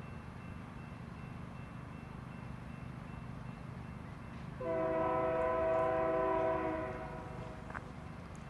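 Freight locomotive air horn sounding one chord of several notes for about two seconds, starting about halfway through, over a steady low rumble.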